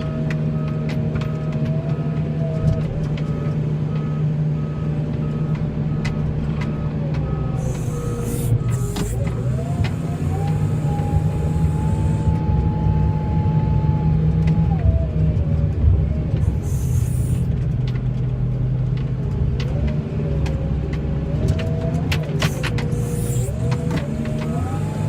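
Heavy snow-plowing vehicle's engine running under load, heard from inside the cab, with a whine that rises and falls in pitch as the engine revs up and down. A back-up alarm beeps steadily near the start and again near the end.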